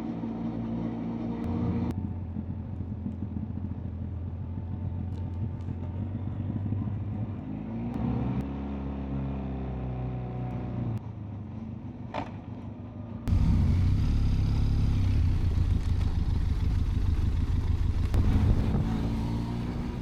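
Benelli TRK 502X parallel-twin motorcycle engine running and pulling up through the revs, heard in several short cuts. In the last third, loud wind rush on the microphone at riding speed covers it.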